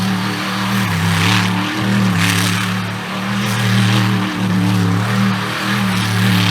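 Mega mud truck's big engine running hard, its pitch rising and falling a little as the throttle is worked, with bursts of hissing noise over it.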